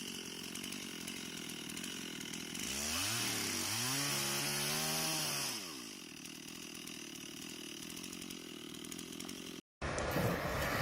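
Chainsaw running steadily, revving up and back down over about three seconds. The sound cuts out abruptly near the end.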